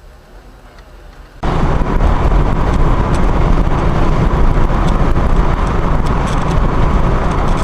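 Faint low hum, then about a second and a half in an abrupt jump to the loud, steady noise of a vehicle driving on the road.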